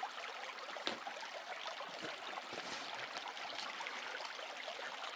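Steady rush of running water, with a few light knocks about one and two seconds in.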